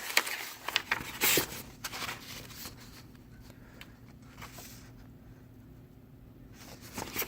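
Rustling and clicking of cardboard and plastic packaging being handled, busiest in the first couple of seconds and again near the end, over a faint steady hum.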